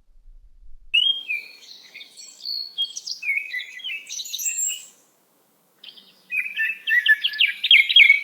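Songbird singing: a varied phrase of high chirps and short whistles lasting about four seconds, then after a brief pause a faster run of rapid repeated notes near the end.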